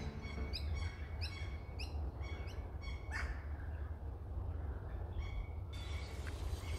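Birds calling in bushland: a quick run of short chirps, each sliding downward in pitch, about two to three a second, which stops a little before the end. A steady low rumble lies underneath.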